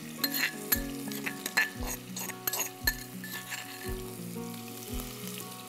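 Onion, ginger, garlic and chilli paste sizzling and crackling in hot oil in a frying pan, the pops thickest in the first three seconds. Background music with a steady beat about once a second runs underneath.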